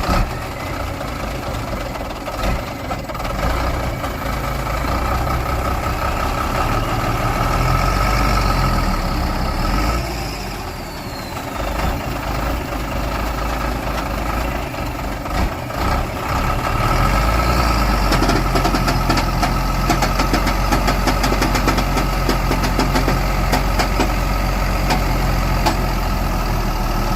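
Heavy truck engine running under load, its revs climbing over several seconds, easing off about ten seconds in, then pulling hard again and held high for the last ten seconds.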